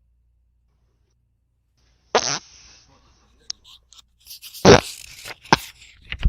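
Silence, then a short fart about two seconds in, followed by the rustle of book pages being turned. A louder fart comes about halfway through, with a few shorter bursts near the end.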